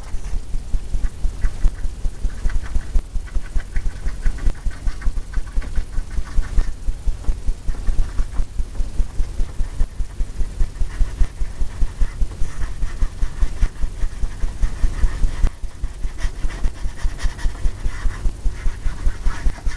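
Paintbrush scrubbing back and forth on a stretched oil-painting canvas, a rapid steady rhythm of about four strokes a second with a dull thump on each stroke as the canvas drums.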